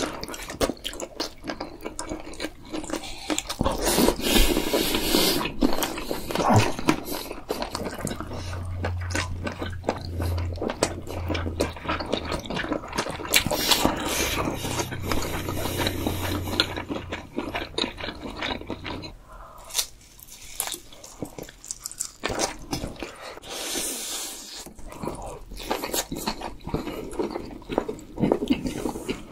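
Close-miked eating sounds: two people chewing and biting into spicy rice cakes, fish-cake skewers and seaweed-wrapped kimbap. They come as many small irregular clicks and smacks, with occasional crunches.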